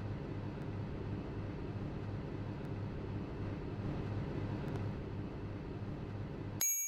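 Microwave oven running with a steady hum, which cuts off abruptly near the end and is followed by a short ringing chime as the cycle finishes.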